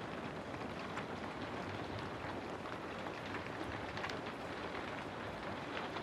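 Steady rainfall, a constant hiss with scattered separate drops ticking on a surface.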